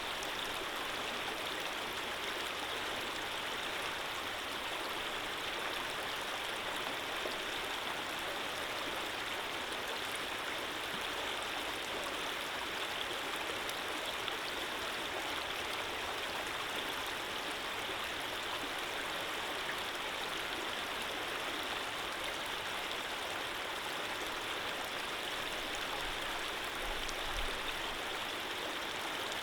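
Running water of a gently flowing stream: a steady, even rush with no breaks or changes.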